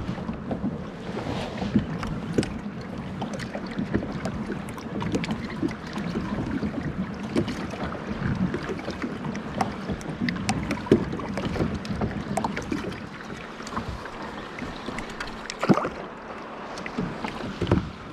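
Water splashing and sloshing around a kayak, with scattered small knocks against the hull and wind on the microphone.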